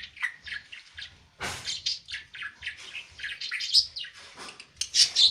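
Budgerigar chattering: a fast, continuous run of short chirps and squeaky notes, loudest near the end.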